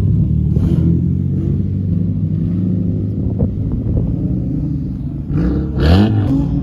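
Nissan Altima engine running steadily at low speed, then revving up sharply about a second before the end.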